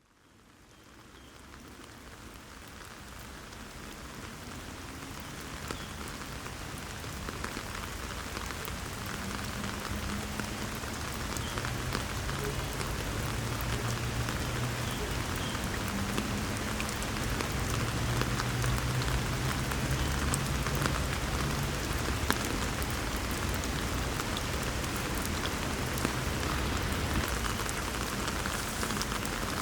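Steinsdalsfossen waterfall rushing steadily, with fine crackling splashes. It fades in from silence over the first few seconds.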